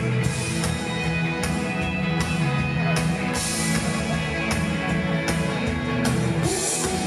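A live pop-rock band playing the instrumental intro of a song, with guitar over a steady drum beat.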